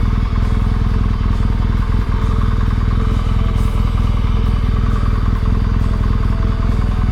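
Motorcycle engine running steadily at low road speed, heard from on the bike.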